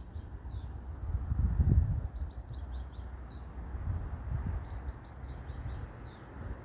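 A small songbird singing a phrase of quick high chirps that ends in a falling note, three times, over a low, uneven outdoor rumble that swells briefly about one and a half seconds in.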